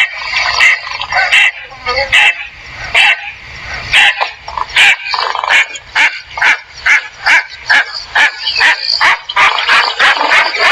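A bird calling over and over in short harsh notes, slow at first and then faster, about three calls a second, from about six seconds in.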